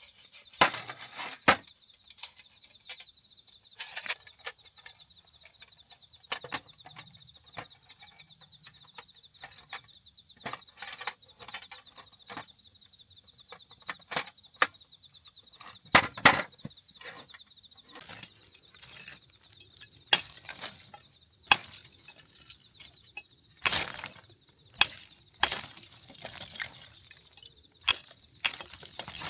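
Steady high-pitched chorus of crickets or other insects, broken by sharp, irregular cracks and snaps of wood, about twenty of them, some much louder than others.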